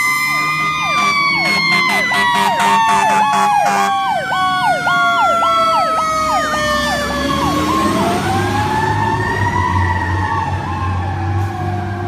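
Fire truck sirens: one in a slow wail that glides down, rises again about eight seconds in and falls, while a second sweeps quickly up and down in a yelp, about two sweeps a second, until about six and a half seconds in. A low engine drone comes up under the sirens in the second half.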